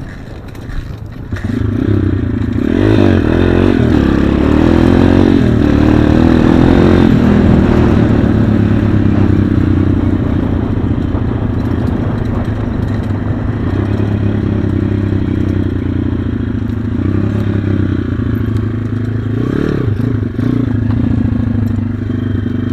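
Small single-cylinder pit bike engine running loudly and being revved, its pitch swinging up and down about three seconds in and again near the end.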